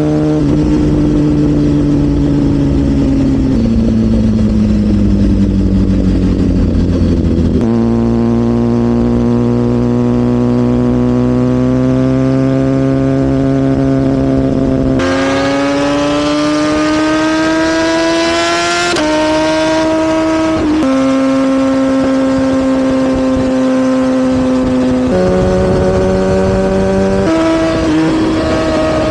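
BMW S1000RR inline-four engine running at moderate revs, its note sinking and rising slowly, with sudden steps in pitch several times as gears are changed.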